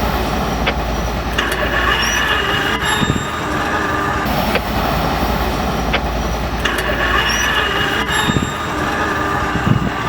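Vehicle running along the railroad track: steady wheel-on-rail rumble with thin squealing tones coming and going and scattered clicks.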